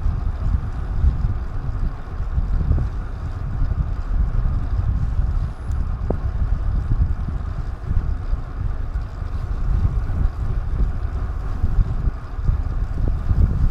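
Wind rushing and buffeting over a DJI Action 2 action camera's microphone while riding, a steady deep rumble with a few faint ticks.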